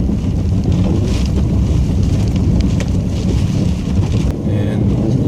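Plow truck engine running steadily with road and wind noise while driving, a continuous low rumble.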